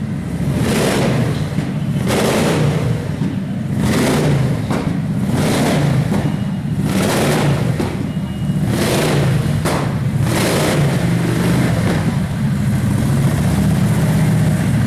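Large motorcycle engine running, its note swelling and falling about once a second as it is revved, then settling into a steadier run near the end.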